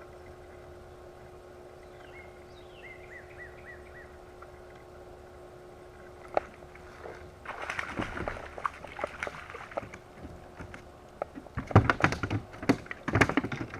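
A steady low hum, with a short series of repeated chirps about three seconds in, then an irregular run of knocks and clatter from about halfway, loudest near the end.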